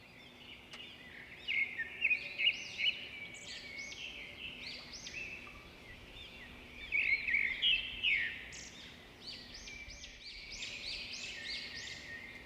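Many small birds chirping and twittering together, a dense run of short overlapping calls, louder in patches, over a faint steady low hum.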